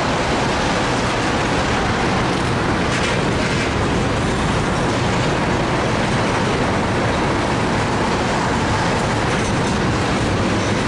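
Tank cars of a freight oil train rolling past on the rails, a steady rumble of wheels on track with no horn.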